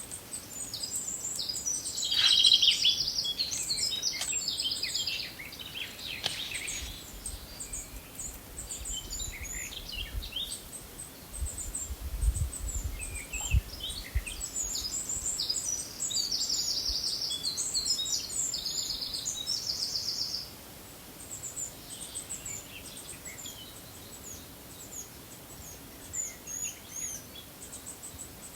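Small songbirds singing and calling, with fast repeated trills about two seconds in and again past the middle, over a faint low rumble.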